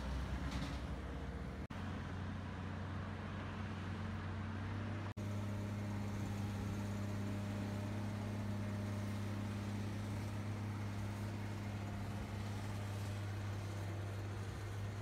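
A vehicle engine running with a steady low hum, broken by two brief dropouts about two and five seconds in.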